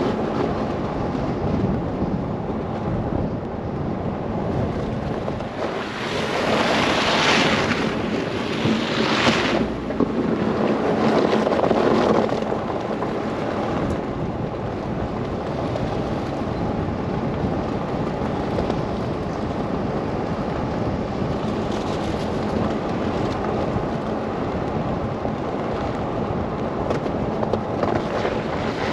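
Wind and road noise of a car driving through a snow blizzard: a steady rush, with a few louder swells in the first half.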